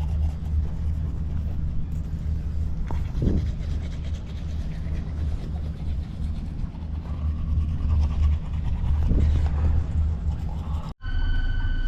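A steady, loud low rumble that wavers in strength, breaking off abruptly near the end.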